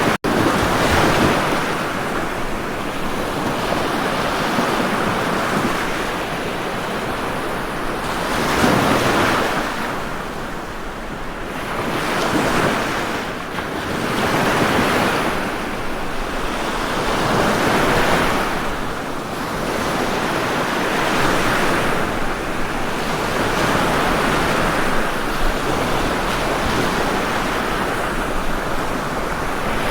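Ocean surf washing onto a shore, a steady hiss of breaking waves that swells and falls back every few seconds. A split-second dropout breaks the sound just after the start.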